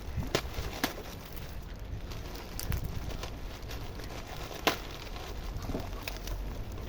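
Wind rumbling on the microphone, with a handful of scattered sharp clicks and crackles, the loudest about two-thirds of the way through.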